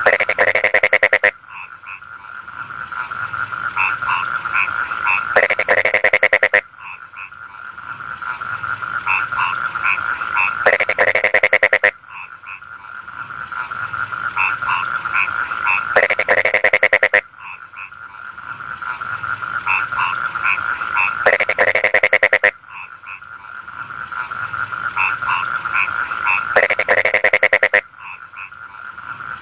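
Rice-field frogs calling in chorus: a loud, rapid pulsing croak lasting a little over a second recurs about every five seconds, over steady, continuous calling between.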